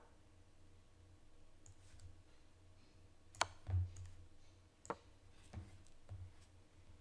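A handful of faint, sharp clicks from playing chess at a computer, spaced irregularly, the loudest about halfway through with a duller knock just after it, over a low steady hum.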